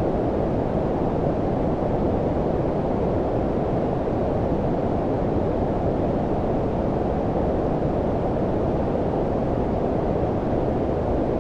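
Steady low-pitched synthetic noise, brown-noise style white noise, its energy mostly below about 1 kHz with little hiss above, unchanging throughout.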